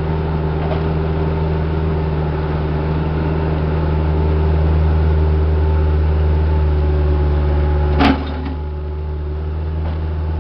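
Diesel engine of heavy earthmoving equipment running steadily at a constant speed, with a single sharp clank about eight seconds in.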